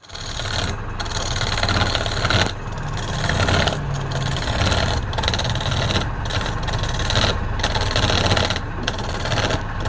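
Wood lathe running with a turning tool cutting into the spinning wood: a steady motor hum under a harsh scraping hiss that breaks off briefly about once a second as the tool lifts off.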